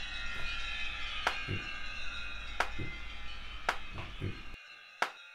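Sharp whacks and smacks from a staged kitchen fight, about one every second or so, most followed by a duller thud. They come over quiet background music that drops out near the end, just before one last whack.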